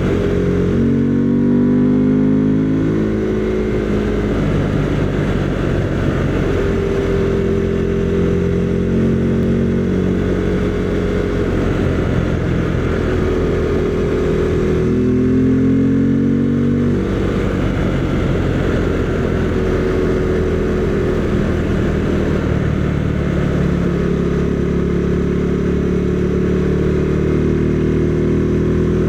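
Husqvarna Svartpilen 401's single-cylinder engine running under way, its pitch rising and falling repeatedly with throttle and gear changes, over steady wind and road noise.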